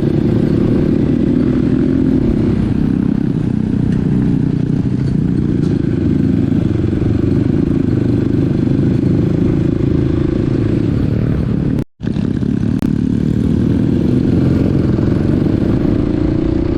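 Small dirt bike's engine running steadily under load on a rough trail, with some clattering. The engine note rises near the end. The sound cuts out for a split second about two-thirds of the way through.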